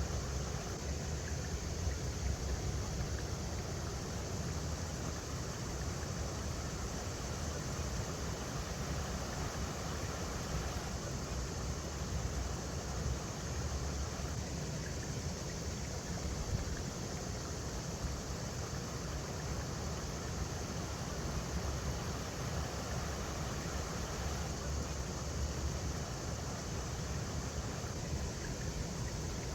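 River water rushing steadily over rocks, an even unbroken hiss with a low rumble underneath.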